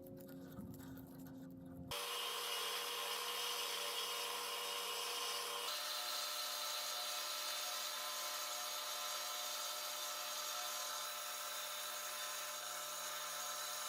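A power tool running steadily, starting abruptly about two seconds in after a few light knocks, with a change in its sound about six seconds in.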